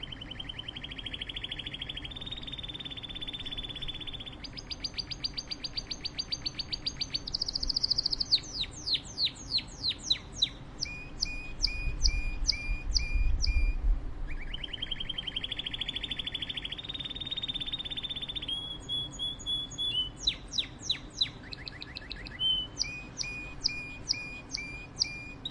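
A songbird singing a long, varied song of fast high trills, quick downward-sweeping notes and runs of repeated chirps. The same song sequence plays through twice. A brief low rumble sounds about halfway through.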